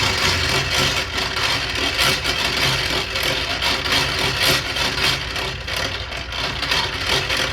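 A loud engine running close by, a dense clattering noise that starts suddenly and cuts off near the end.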